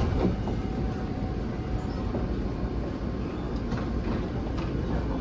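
Taipei Metro Bannan line train running, a steady low rumble with a few light clicks.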